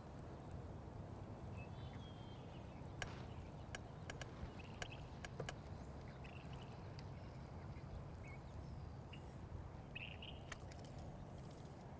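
Faint short bird calls every second or two over a steady low rumble, with scattered light clicks.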